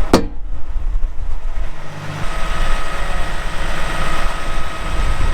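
A sharp bang just after the start, then a grain road train's diesel engine running steadily, its low hum shifting about two seconds in.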